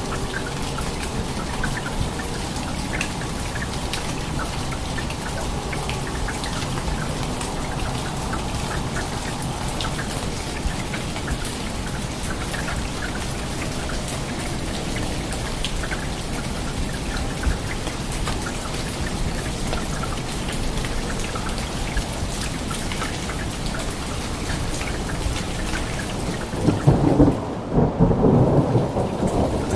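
Steady rain with scattered drops, and a loud roll of thunder near the end.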